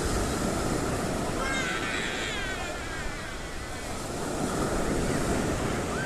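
Sea surf washing onto a beach: a steady rush of waves.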